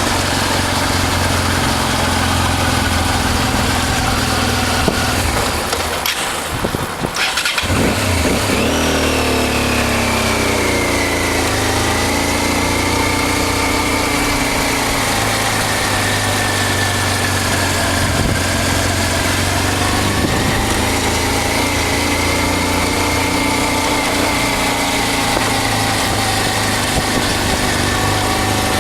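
Honda Transalp's V-twin engine running under way with wind noise. The sound dips briefly about six seconds in, then the engine note climbs as the bike accelerates and settles into a steady cruise.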